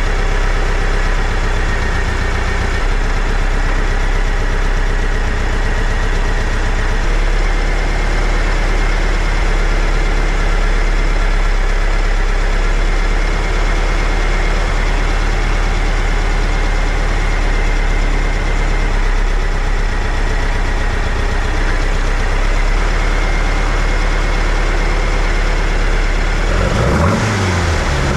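Air-cooled VW engine on dual Weber 48 IDA carburetors idling steadily while the carbs are being synchronized, the idle note shifting slightly a few seconds in. Near the end the engine is revved up and down.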